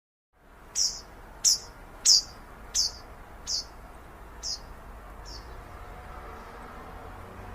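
A bird calling a series of about seven short, high, downslurred notes, spaced a little under a second apart, slowing and growing fainter, over a steady low background hum.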